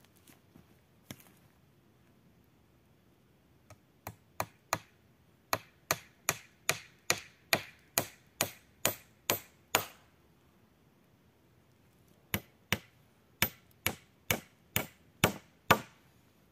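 A tool striking wood in quick, evenly spaced blows, about three a second: a long run of a dozen or so, a pause of two seconds, then a second run of about nine.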